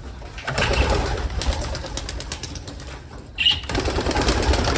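Racing pigeons stirring at the loft: wing flaps and scuffling, with cooing among them. The wing flaps come as many short clicks, and a sharper burst of activity follows a little over three seconds in.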